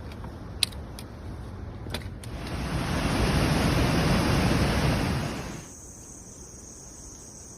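A loud, even rushing noise swells up for about three seconds and then cuts off abruptly, leaving a faint, steady, high insect chirring, like crickets.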